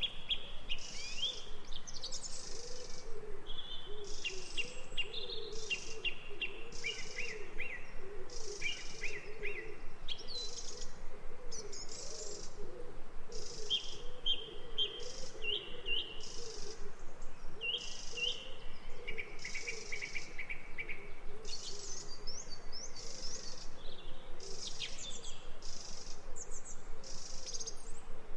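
Birds chirping and trilling in short phrases over an insect chorus that pulses about once a second, with a lower wavering warble underneath.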